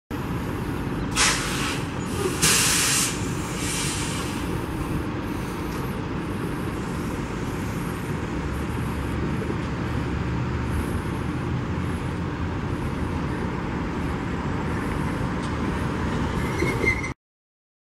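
Freight train moving along the track: a steady low rumble of wheels on rail, with a few short hissing bursts in the first four seconds and a brief high wheel squeal near the end.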